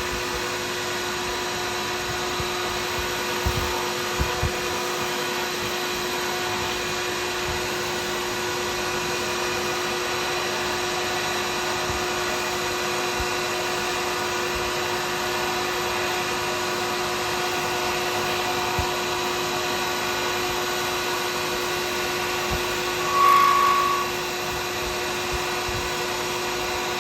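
Woodturning lathe running steadily with a constant hum as it spins a resin-and-burl pen blank. Near the end a brief, louder high whine stands out.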